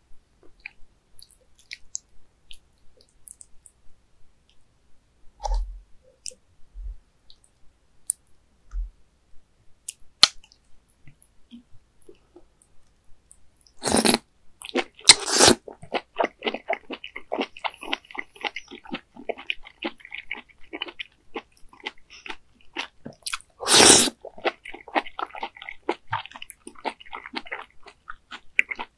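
Mouth sounds of eating raw baby squid sashimi in red sauce. A few faint wet clicks come first, then loud slurps of mouthfuls from a ladle about halfway through and again near the end, each followed by rapid, steady chewing.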